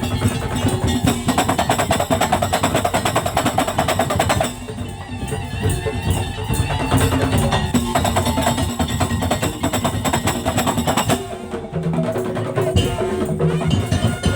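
Madurese tong-tong percussion ensemble playing: wooden slit drums and drums struck in fast, dense rhythm. The music dips briefly about four and a half seconds in, and a steady held tone joins about eleven seconds in.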